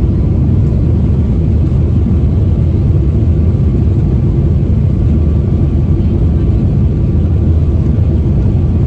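Jet airliner engines producing a steady, loud low rumble with no sudden changes.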